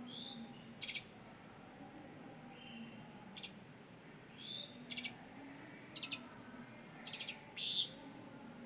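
Birds calling: short, rapidly pulsed high notes every second or so, mixed with a few swooping calls, the loudest near the end. Under them is a soft, steady hiss of distant rain.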